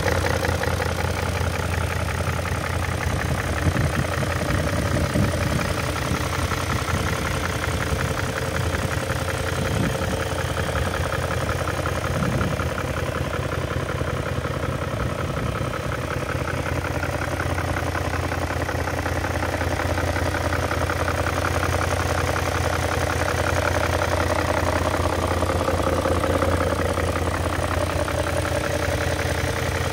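BMW M62B44TU 4.4-litre V8 idling steadily, heard close up from the engine bay and underneath the car. The engine is due for a timing chain replacement and a VANOS unit rebuild.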